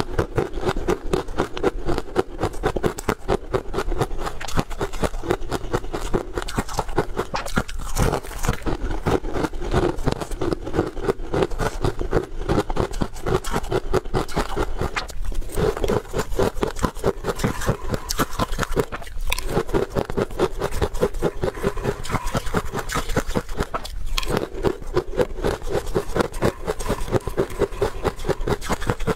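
Close-miked chewing of crunchy, crumbly buckwheat crisp: a dense, continuous run of crackling crunches.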